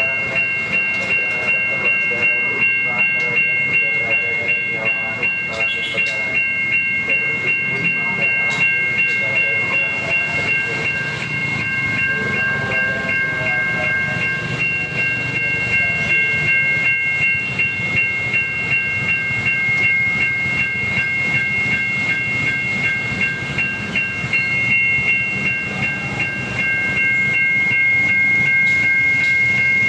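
Siemens level-crossing warning device sounding an American-style electronic crossing bell: a rapid, steady pulsing ring in three high tones, with a train rumbling past. The ring gets louder near the end.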